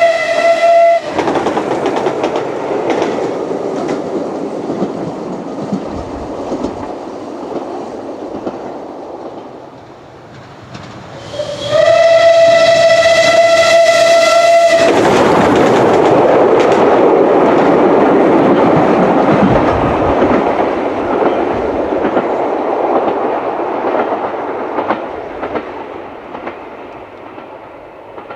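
Rebuilt Bulleid Merchant Navy class steam locomotive 35018 British India Line whistling and running past. A single-note whistle cuts off about a second in and the rail noise fades. A second whistle sounds about eleven seconds in for about three and a half seconds, then the loud clatter of the locomotive passing dies away towards the end.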